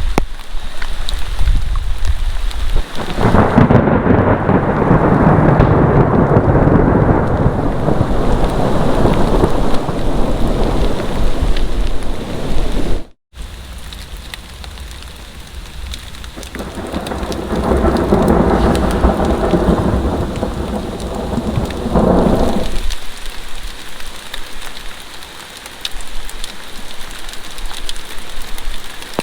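Heavy rain falling steadily, with two long rolls of thunder: the first builds about three seconds in and breaks off abruptly near the middle, and a second, shorter roll comes about two-thirds of the way through.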